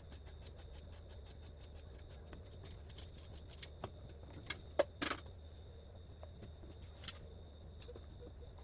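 Scattered small clicks and clinks from hand work taking the fuel tank off a go-kart chassis, with a few sharper knocks about halfway through. A steady faint hum and thin high whine lie underneath.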